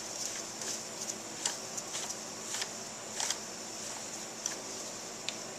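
Scattered light metal clicks and taps as brake caliper mounting bolts are run in hand tight, over a steady hiss.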